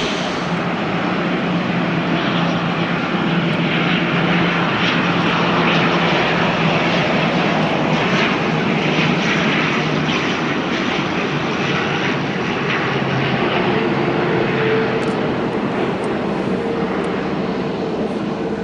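Japan Air Commuter turboprop airliner landing: steady engine and propeller noise with a low hum, a higher tone coming in about two-thirds of the way through.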